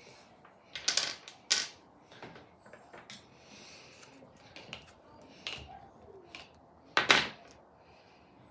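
Kinetic sand being handled, giving a few sharp crunching clicks: a pair about a second in, and a louder cluster near the seven-second mark, with small ticks in between.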